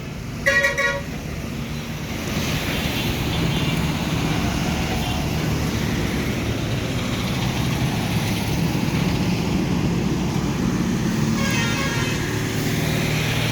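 A vehicle horn blasts briefly about half a second in, followed by steady road traffic noise of engines running.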